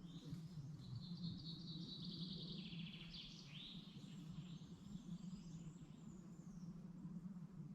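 A songbird singing one phrase: a fast trill that drops in pitch and ends in a short flourish. After it comes a thin, high, drawn-out note from a bird, all over a faint steady low rumble.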